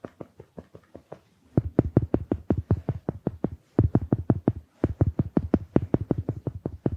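A large makeup sponge patted rapidly against the microphone, about seven soft, dull pats a second. The pats are light at first and much heavier from about a second and a half in, with a couple of brief pauses.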